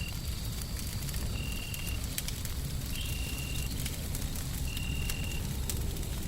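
Wood fire crackling with scattered sharp pops over a steady low rumble of white noise. A short high beep repeats three times, about every second and a half.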